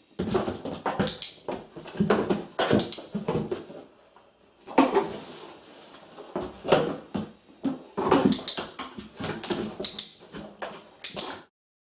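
Irregular knocks, scuffs and sharp clicks as a dog moves in and around a cardboard box during clicker training. The sound cuts off suddenly near the end.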